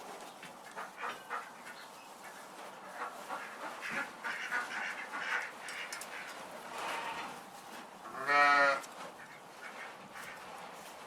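Farm animals calling: a scatter of short, faint calls, then one louder, clearly pitched call about eight seconds in.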